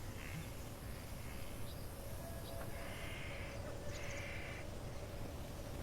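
Crow cawing: a short harsh call near the start, then two longer caws about three and four seconds in, over a steady low outdoor rumble.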